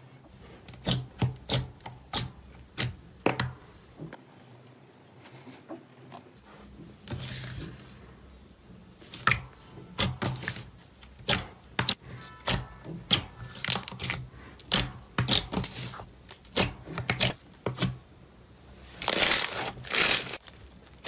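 Slime being squeezed, poked and stretched by hand, giving irregular sharp clicks and pops, with a longer crackling stretch about seven seconds in and two louder ones near the end.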